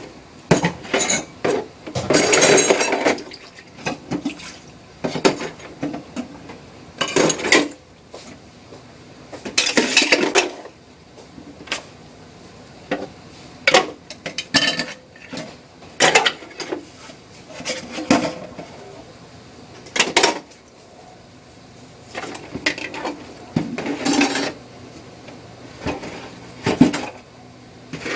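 Dishes and cutlery clattering and clinking as they are handled and set down, in irregular knocks with a few longer bursts of rattling.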